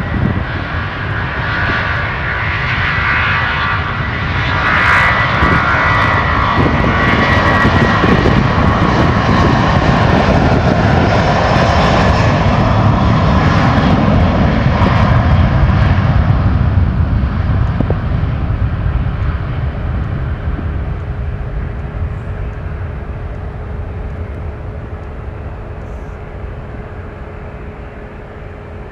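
Aircraft engines passing close by: a loud, steady noise with a high whine, which holds for about twelve seconds and then fades away steadily.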